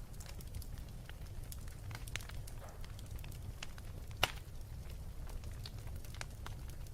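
Wood fire burning with a steady low rumble and scattered sharp crackles and pops. The loudest pop comes about four seconds in.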